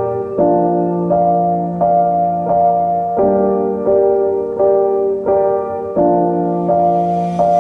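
Soft background piano music: a slow, gentle melody of sustained chords, the notes changing about every half second to second.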